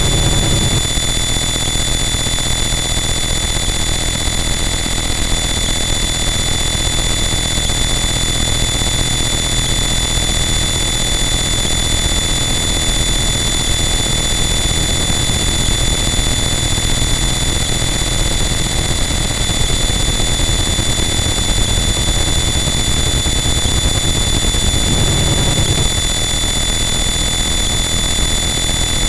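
Harsh noise wall: a loud, unchanging wall of dense distorted static with steady shrill tones riding on top, and a short low swell about twenty-five seconds in.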